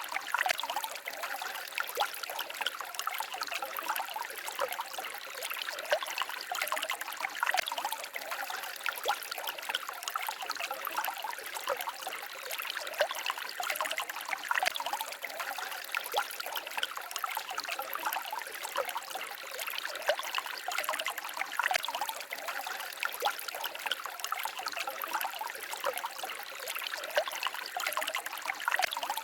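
Small forest stream babbling and trickling over stones, a steady splashing with many small droplet sounds.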